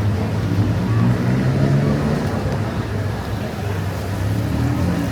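Vehicle engine running with a steady low hum amid street traffic noise.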